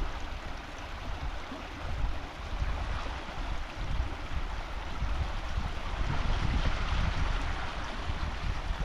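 Wind buffeting the microphone with an uneven low rumble over a steady rushing hiss.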